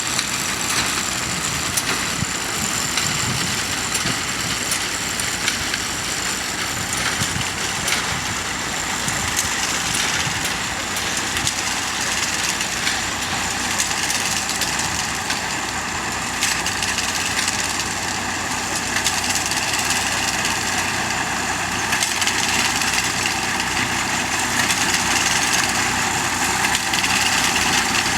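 Tractor engine running steadily while pulling a binder through standing wheat, with a light clicking clatter from the binder's machinery.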